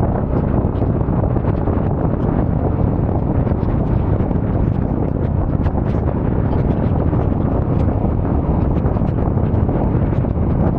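Steady wind rush on the microphone mixed with the running of a Yamaha Ténéré 700's parallel-twin engine and tyre noise while the motorcycle is ridden, with scattered faint ticks.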